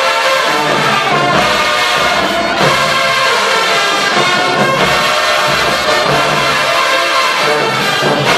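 HBCU show-style marching band playing a loud, brass-heavy tune, with trombones and trumpets carrying the melody over drums.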